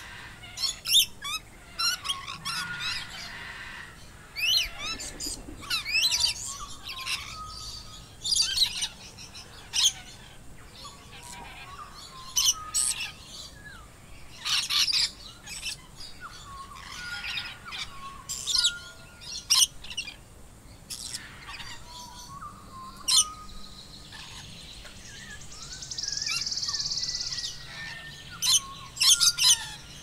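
Several birds chirping and calling in a natural outdoor soundscape, with many short, quick notes and sweeping whistles. A brief steady hiss comes near the end.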